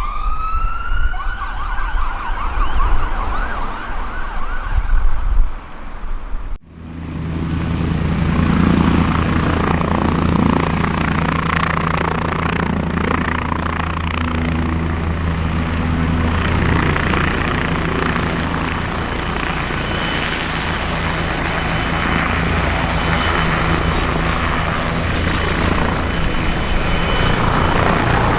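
An emergency vehicle siren wails and then yelps fast over traffic noise for the first few seconds. After a sudden cut, a helicopter's rotor and engine give a steady low drone with hiss for the rest of the time.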